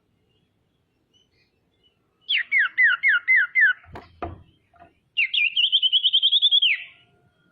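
Common iora (sirtu/cipoh) singing: a run of about six quick downslurred whistles, then a fast, even trill of clear notes that ends in a downward slide. Two sharp knocks fall between the two phrases.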